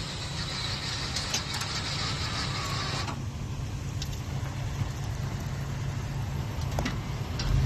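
Truck engine idling steadily just after starting, with a hiss over it for the first few seconds and a few light clicks. The engine gets louder right at the end.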